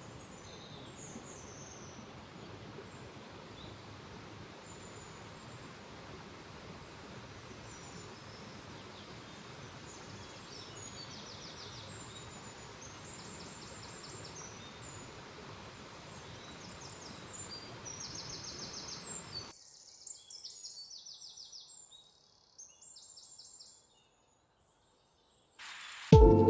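Outdoor ambience: a steady rushing background with birds chirping over it. The rushing background cuts out suddenly about twenty seconds in, leaving the chirps alone, then near silence, and music starts at the very end.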